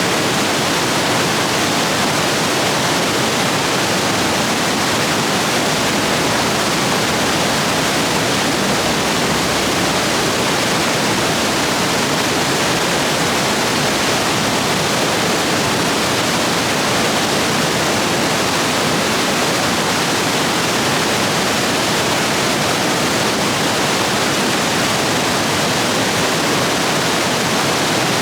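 Rain-swollen stream rapids rushing over rocks, a steady loud roar of white water.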